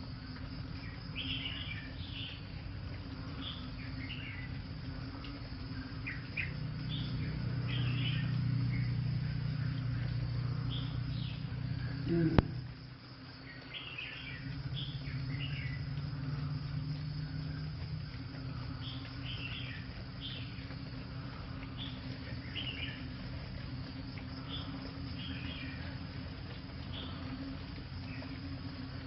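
Outdoor ambience with many short, scattered high chirps from small animals over a steady background hiss. A low hum swells in from about six seconds and fades by about eighteen, and a single sharp click comes near the middle.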